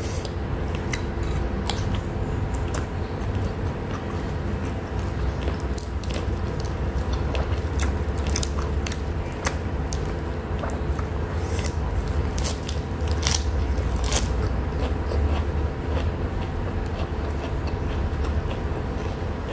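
Close-up chewing and wet mouth sounds of someone eating rice and lettuce by hand, with scattered sharp clicks and smacks. A steady low hum runs underneath.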